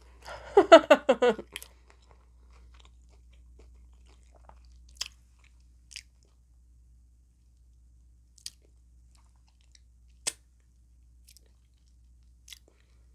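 Mouth-close chewing of a hard taco shell, with a few sharp crunches a second or more apart.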